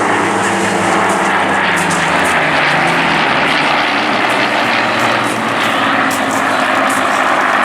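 Spitfire's Merlin piston engine droning loudly as the fighter flies past, its note dropping slightly a couple of seconds in.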